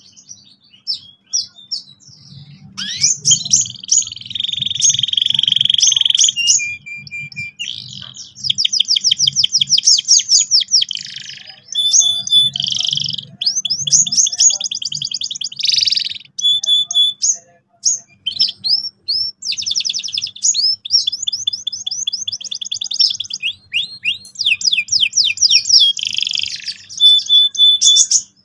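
Domestic canary singing a long, loud song of fast rolling trills, rapid runs of repeated notes mixed with held whistled tones, broken by brief pauses.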